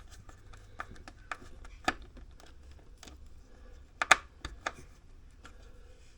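Irregular clicks and taps of hands working on the heater's wiring and connectors. A sharp click comes about two seconds in, and the loudest, a quick pair of clicks, comes about four seconds in.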